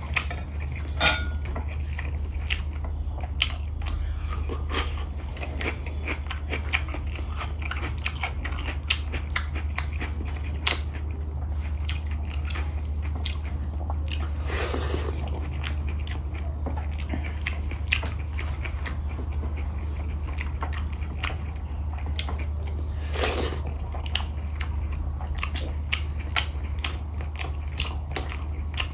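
Close-miked eating: chewing and biting food, with many small irregular wet clicks and smacks over a steady low hum.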